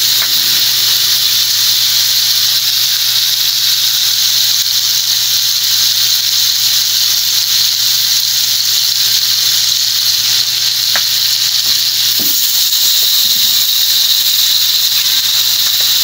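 Pork adobo with carrot, onion and garlic sizzling steadily in oil in a wok, a loud even hiss, with a low steady hum underneath and a brief click about 11 seconds in.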